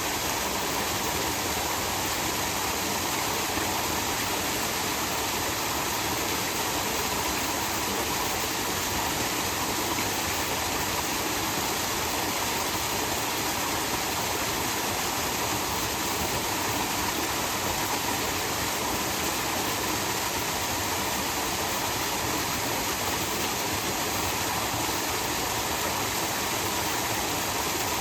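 Small waterfall: a steady rush of falling water that runs on without a break.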